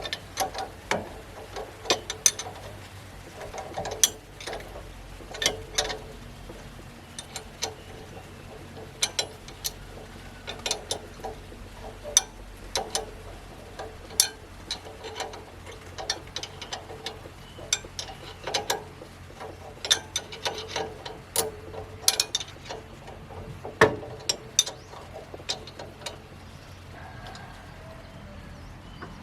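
Irregular metallic clicks, clinks and knocks of hand tools working on tractor machine parts, with one sharper knock near the end.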